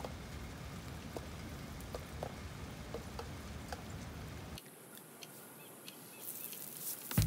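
Steady rain falling on a wet concrete rooftop, with scattered single drops ticking. About four and a half seconds in it cuts to a fainter hiss of water from a garden hose and a deck brush scrubbing the wet concrete, which gets louder near the end.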